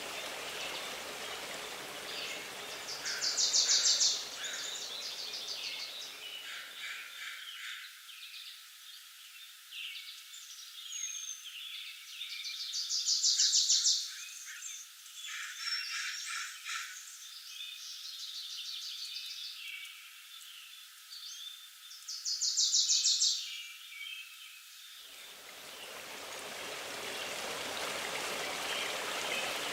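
Songbirds singing in the woods: three loud bursts of rapid high trills, with scattered shorter chirps between them. A steady rushing of running water underlies it, drops away for most of the middle and swells back near the end.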